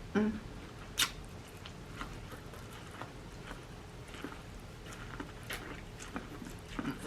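Close-up eating sounds: wet chewing and sharp mouth clicks and smacks, one loud snap about a second in, after a short hum of enjoyment.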